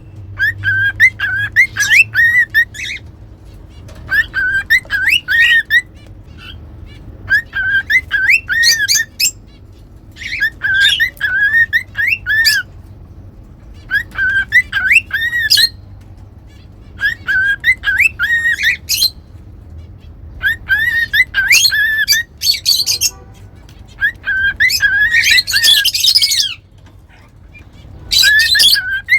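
Cockatiels whistling in repeated short bouts of quick, gliding chirpy notes with brief pauses between them. A harsher, scratchier squawk-like burst comes near the end.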